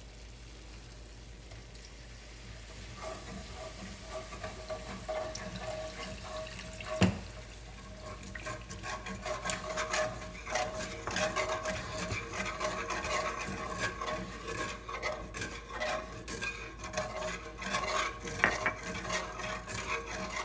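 A whisk stirring and scraping in a pan as chicken stock is whisked into the gravy base, the strokes becoming rapid and continuous from about eight seconds in. One sharp knock against the pan about seven seconds in.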